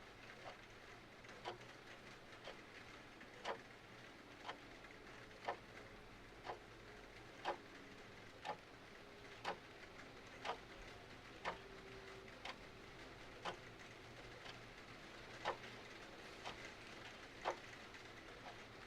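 Clock ticking about once a second over a faint steady hiss of rain.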